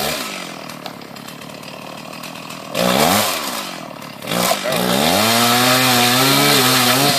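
Chainsaw engine revving: it drops back at the start, is blipped up and down about three seconds in, then climbs again and is held at high revs to the end, its pitch wavering slightly.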